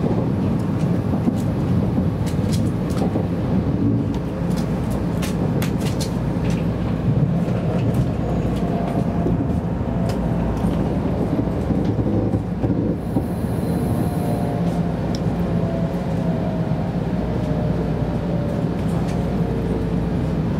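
Shinkansen train cabin noise as the train slows into a station: a steady low rumble with scattered clicks in the first several seconds. From about eight seconds in, a faint whine slowly falls in pitch as the train decelerates.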